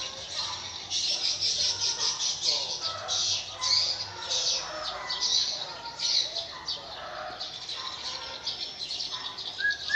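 Birds chirping: many short, high calls overlapping in a continuous chatter.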